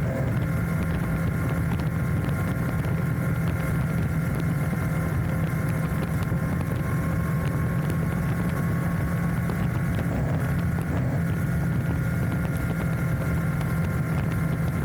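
Enduro motorcycle engine running steadily at an even cruising speed on a gravel road.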